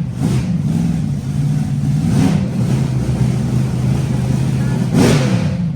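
Car engine idling, revved briefly about two seconds in and again near the end.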